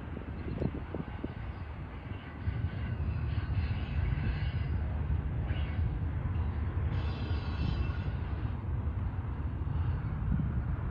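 Union Pacific freight train's container cars rolling past on the rails: a steady low rumble that grows louder about two and a half seconds in.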